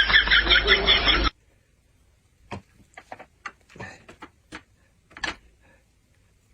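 A loud, rhythmically repeating sound cuts off suddenly about a second in, followed by faint scattered clicks and rustles, like small objects being handled.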